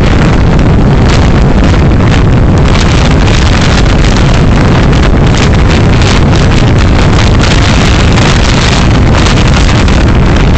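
Loud, steady rumble of a moving car's road and wind noise picked up by a dashcam, with quick gusts of wind buffeting the microphone throughout.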